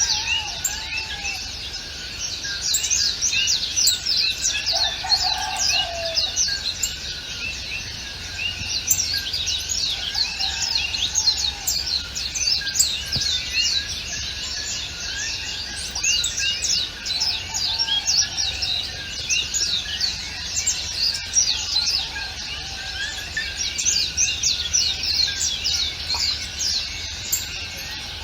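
A chorus of many small birds chirping rapidly and continuously in high, quick falling notes, with a lower, slower call cutting in every few seconds.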